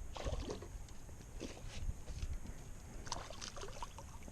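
Light water sloshing and splashing around a kayak, with scattered small clicks and knocks, while a hooked bass is played toward the boat.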